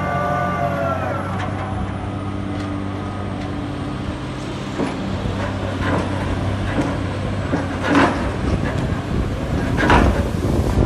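Backhoe's diesel engine running steadily, with two sharp metallic clanks near the end as it works. Intro music fades out in the first second or two.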